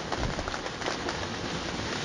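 Steady rain falling, a continuous patter with many separate drops striking a surface.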